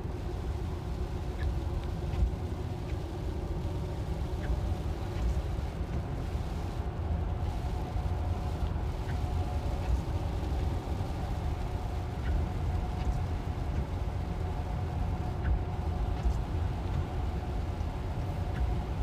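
Steady low road and tyre rumble heard inside a Tesla electric car's cabin on a rain-wet road, with a few faint scattered ticks.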